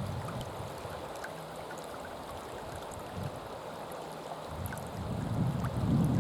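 Strong wind buffeting the microphone in low rumbling gusts, easing off and then picking up again about four and a half seconds in, over the steady flow of river water.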